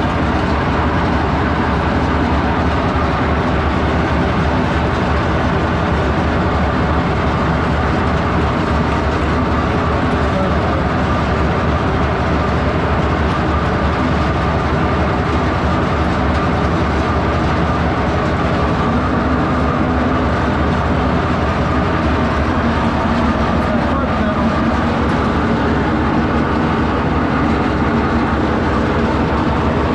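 Detroit diesel power unit of a hydraulic circle sawmill running steadily.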